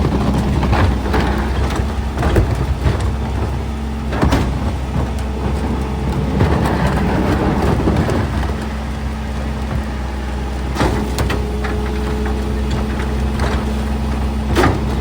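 Garbage truck's diesel engine idling steadily, with scattered knocks and clatter over it.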